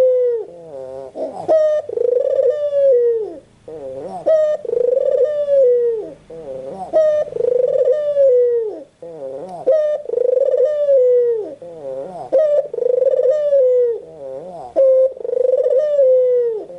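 White puter dove (the white form of the Barbary or ringneck dove) cooing over and over, a rolling call about every two seconds.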